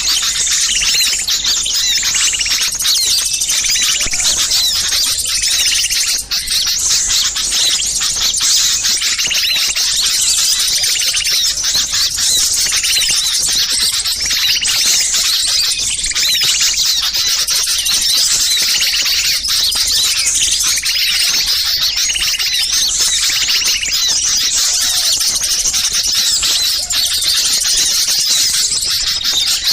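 Many small songbirds calling over one another in a dense, unbroken chatter of high chirps and trills. This is a bird-lure recording of agitated small birds, made to draw wild birds in.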